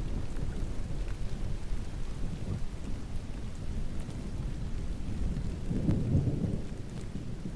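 Steady rain with a continuous low rumble of distant thunder that swells louder about six seconds in, with scattered faint drop ticks over it.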